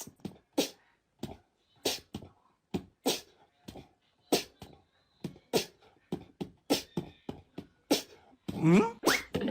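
A quick run of short, sharp puffs of breath, about two a second with brief silences between, then a rising squeaky call near the end.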